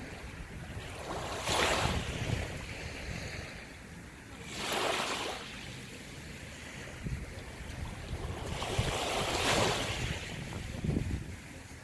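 Sea waves washing in, three surges of hiss that swell and fade, over a low rumble of wind on the microphone.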